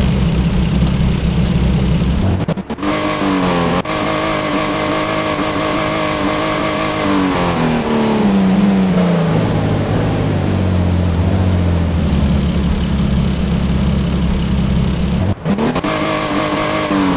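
BMW car engine being revved: from a low steady run it climbs sharply about two and a half seconds in, holds high for a few seconds, then winds slowly back down to a steady low run, with another quick rev just before the end.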